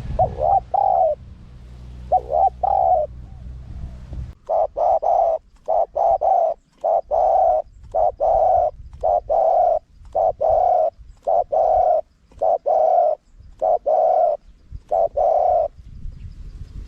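Spotted dove cooing: a few scattered coos, then a steady run of about eleven coos, roughly one a second. A low hum lies under the first few seconds.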